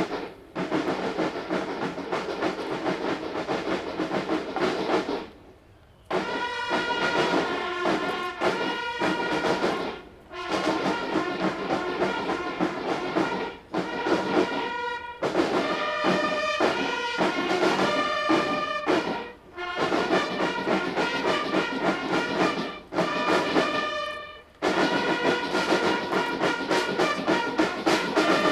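Military drum and bugle band playing a march. It opens with about five seconds of percussion, then, after a short break, brass comes in with phrases separated by brief pauses.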